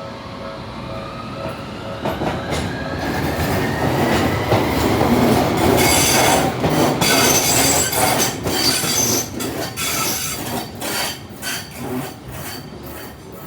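Tokyu Setagaya Line 300-series tram pulling away: its traction motors whine, rising in pitch as it gathers speed. Then its wheels clack over the rail joints and squeal as it goes by, loudest in the middle and fading near the end.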